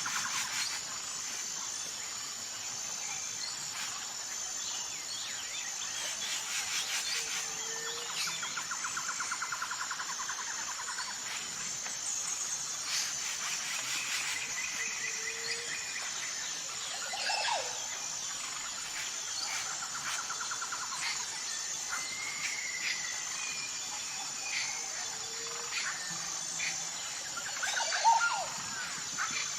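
Forest ambience: various birds chirping and calling over a steady high-pitched insect trill, with a short low note recurring about every eight seconds.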